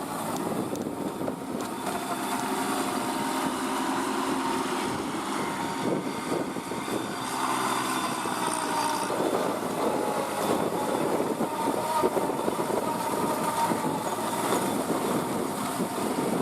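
Kubota NeoStar B2441 mini tractor's three-cylinder diesel engine running steadily, with a busy mechanical clatter mixed in.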